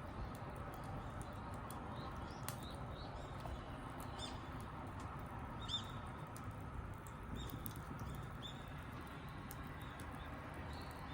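Scattered short, high bird chirps over a faint steady background, with occasional sharp little clicks.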